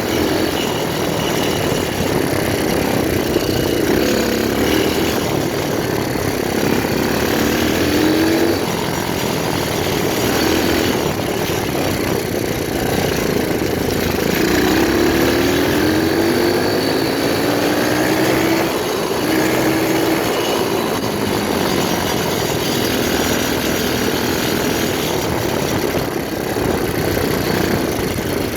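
125cc pit bike engine running under riding load, its revs climbing several times, around 8 seconds in and again around 15 to 20 seconds in.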